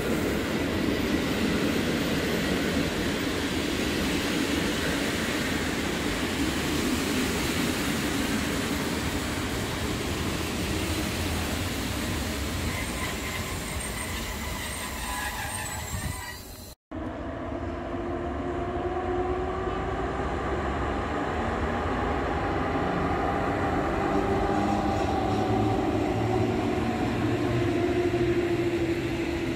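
A train of passenger coaches rolling past on the rails, a steady rush of wheels and running gear. After a sudden break about 17 s in, the train sounds quieter and more distant, a low rumble with a faint wavering tone.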